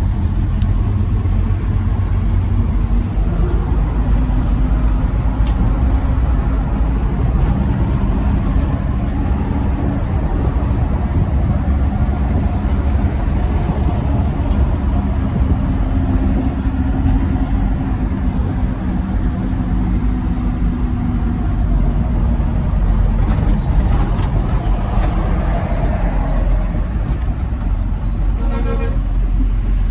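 Truck running on the road: a steady engine drone over continuous road noise.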